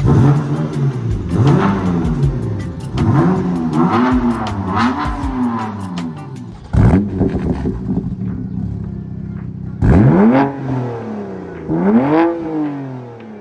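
BMW F80 M3's twin-turbo inline-six being revved repeatedly through an XForce cat-back exhaust, about eight quick blips that rise and fall in pitch, with a raspy tone. There is a sharp crack about seven seconds in, in a lull between the revs.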